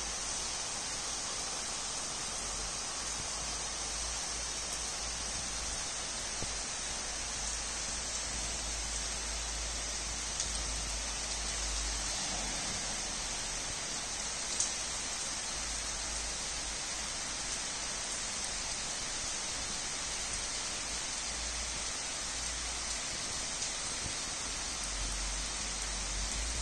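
Steady rain falling on wet paving and grass: an even patter of drops, with a few single louder drop hits standing out.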